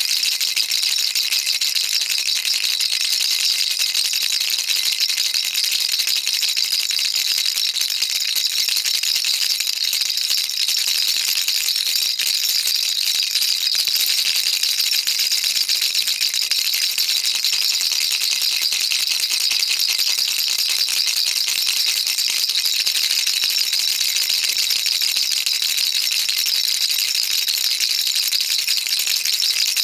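Baby rattle shaken continuously, a dense, even rattle of small beads with no pauses.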